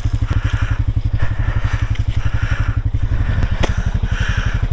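Off-road vehicle engine running steadily at low speed while creeping over rough trail, with a rhythmic scratchy crunching over the engine pulse and one sharp click about three and a half seconds in.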